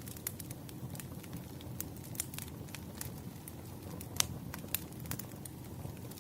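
Campfire crackling: scattered sharp pops over a low, steady rumble of burning wood, the loudest pop about four seconds in.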